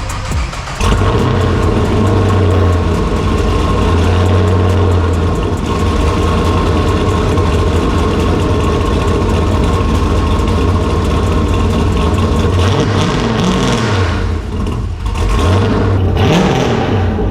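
Car engine running through its exhaust: a steady low idle at first, then revved up and down several times in the last few seconds.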